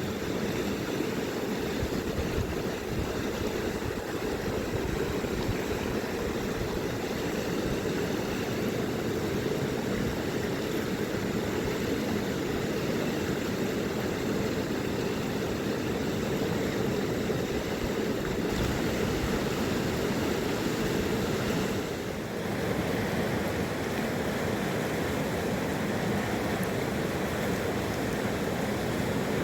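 Rushing river water: a steady, even noise of a wild mountain river, with a brief dip about 22 seconds in.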